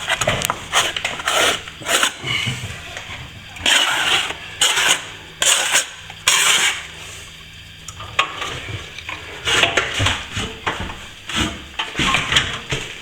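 Metal plastering tool scraping back a coat of plaster that is just short of set, in many short, irregular strokes.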